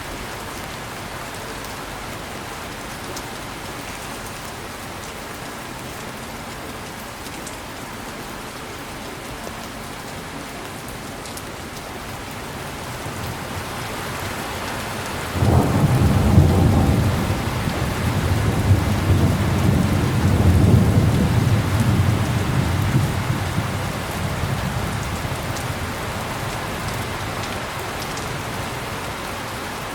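Heavy rain falling steadily, with a clap of thunder about halfway through that breaks suddenly into a deep rolling rumble, swelling in waves for several seconds before fading under the rain.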